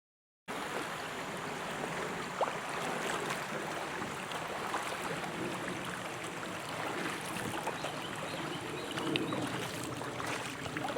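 Creek water running steadily over a riffle, starting suddenly after half a second of silence, with a few faint clicks.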